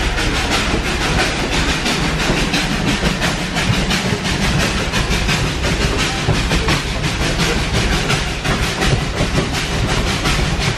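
Passenger train car rolling along the track: a steady rumble with a dense, continuous rattle of wheel and car clicks.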